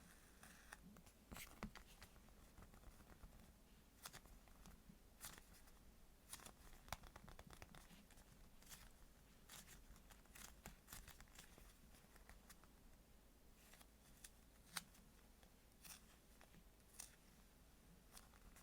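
Faint handling of squishy foam toys: scattered soft crackles and taps at irregular intervals, close up, with two sharper clicks about 7 and 15 seconds in.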